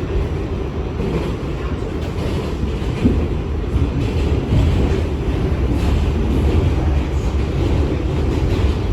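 New York City subway car running along the track, a steady low rumble from wheels and motors with one sharp click about three seconds in.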